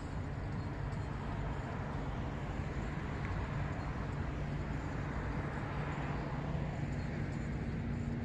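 City road traffic: a steady rumble of passing cars, swelling in the middle and easing off toward the end as a vehicle goes by.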